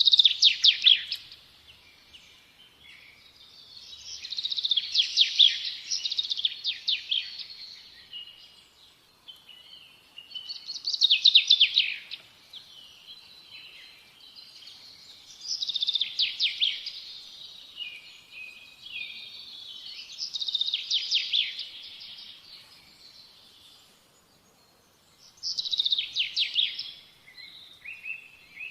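A songbird singing close by: bursts of rapid, high trilled notes, with a new phrase about every four to five seconds.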